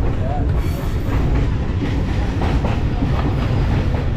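Passenger train carriage running along the track, heard from inside the corridor: a loud, steady rumble with an even clatter of the wheels on the rails.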